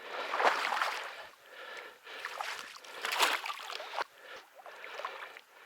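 Water sloshing and splashing in uneven swells as a hooked carp is played close in.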